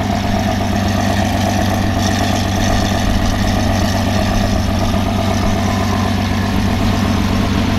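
Lamborghini Aventador's 6.5-litre V12 idling steadily through a full Capristo exhaust.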